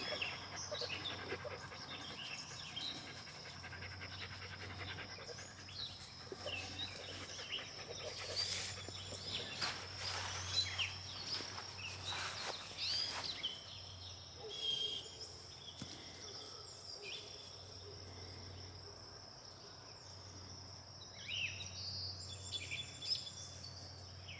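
A Mini Australian Shepherd panting, over a steady high insect drone and scattered chirps. There are a few brief rustling noises in the middle.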